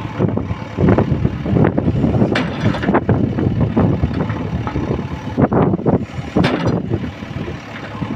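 Heavy diesel machinery engine running, with the sound surging unevenly in loudness.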